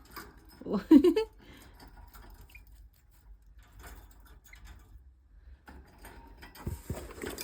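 A brief voiced sound with a bending pitch, most likely a short 'ooh' or 'hmm' from the woman, about a second in. It is followed by faint rustling and light clicks from toys being handled, with a few soft knocks near the end.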